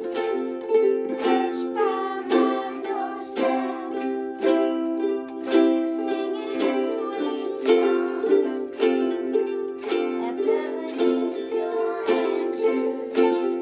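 A class of ukuleles strumming chords together in a steady rhythm, about two strums a second.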